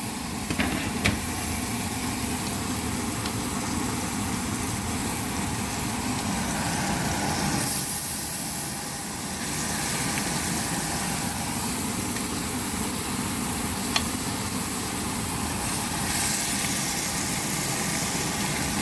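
Seasoned chicken frying in hot coconut oil in a pan, a steady loud sizzle, with a few sharp clicks near the start and one about fourteen seconds in.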